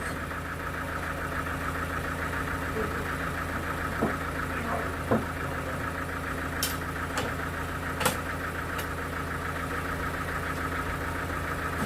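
A sawmill engine running steadily at idle, with a few sharp clicks and knocks over it, the clearest about five and eight seconds in.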